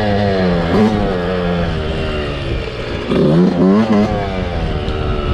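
Small motorcycle engine revving: the pitch sinks slowly over the first couple of seconds, then several quick throttle blips rise and fall about three seconds in.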